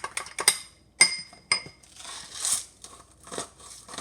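Containers and utensils being handled: a run of sharp clicks, two short ringing clinks about a second in, then rustling and further clicks.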